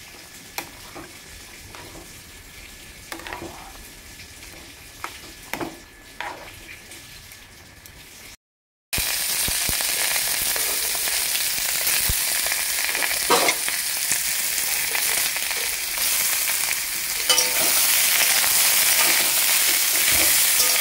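Pork pieces frying in oil: at first a faint sizzle with a few light knocks as the meat is moved in the pan, then, after a brief cut about eight seconds in, a much louder steady sizzling of pork in a large aluminium wok, stirred with a metal spatula that scrapes now and then.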